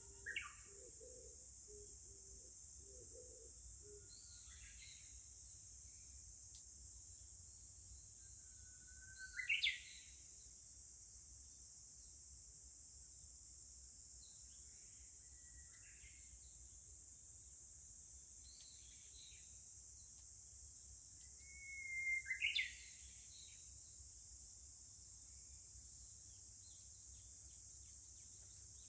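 Japanese bush warblers singing a few times over a steady high-pitched insect drone, likely cicadas. Each song is a held whistle followed by a quick rising flourish, the 'hō-hokekyo' phrase. The loudest songs come about a third of the way in and again near three-quarters.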